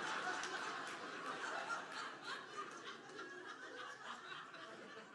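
Audience laughing at a stand-up punchline, with a few scattered claps. The laughter fades away gradually.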